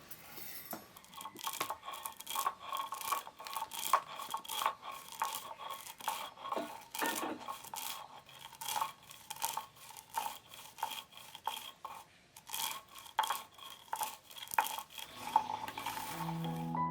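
Metal kitchenware being worked: rapid, irregular scraping and clinking of a utensil against a metal pot, which rings faintly with each stroke.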